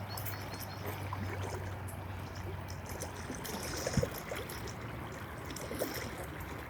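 River water running steadily, with a single sharp knock about four seconds in.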